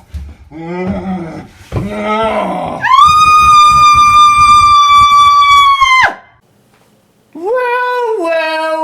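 Loud vocal sounds: short falling groans, then a long, steady, high-pitched cry held for about three seconds that cuts off suddenly. After a brief pause, a lower moan drops in pitch in steps.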